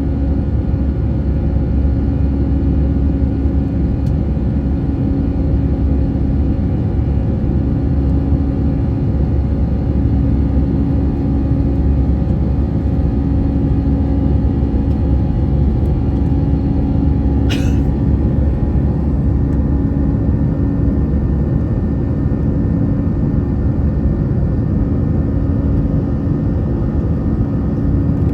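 Airbus A321's jet engines and airflow heard from inside the cabin: a steady, loud deep rumble with a constant hum. A brief high chirp sounds once, about two-thirds of the way through.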